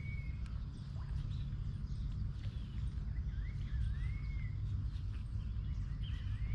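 A bird calling a few times with slurred whistled notes that rise and fall, over a steady low rumble.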